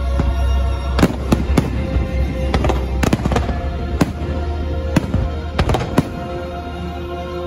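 Aerial fireworks shells bursting, about ten sharp bangs at uneven spacing, over the fireworks show's music soundtrack.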